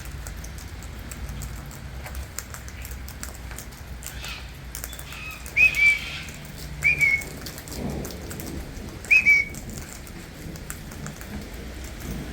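Steady rain falling, with three short whistled notes in the second half, each flicking up then held briefly: a person whistling to call wild birds down.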